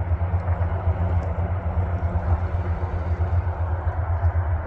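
A steady low rumble with no pauses.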